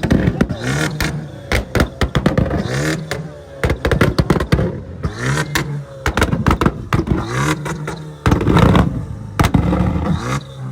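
Car engine revved hard over and over, each rev rising and falling in pitch, with rapid crackling and popping from the exhaust between and during the revs.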